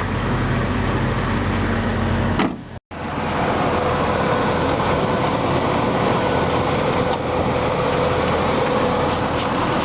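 2006 Jeep Wrangler's engine idling steadily, with a single knock about two and a half seconds in and a brief dropout just after.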